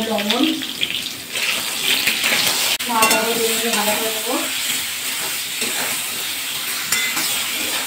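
Eggplant wedges sizzling as they fry in hot oil in a kadai, stirred and turned over with a spatula.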